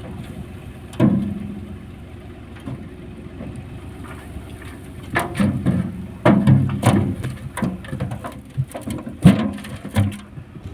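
Farmtrac 45 tractor's diesel engine running at low speed, with sharp clunks and rattles about a second in, in a cluster in the middle and once more near the end.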